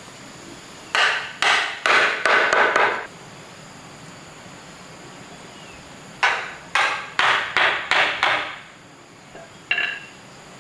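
Hammer striking wood in two quick runs of about six blows each, a few seconds apart, then a single lighter tap with a short ring near the end.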